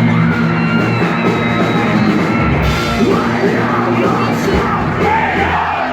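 Post-hardcore band playing loud, dense live rock with yelled vocals, as heard from the audience.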